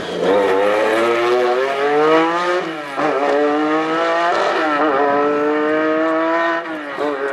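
Rally car engine accelerating hard, its pitch climbing through the gears, with quick upshifts about three and about four and a half seconds in, then easing off near the end.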